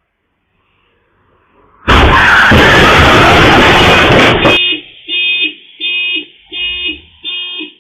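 A sudden, very loud burst of crash noise lasting about two and a half seconds, then a vehicle horn sounding in short, evenly spaced beeps about twice a second.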